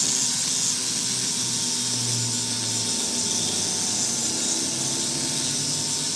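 A power tool running steadily under a strong, even high-pitched hiss.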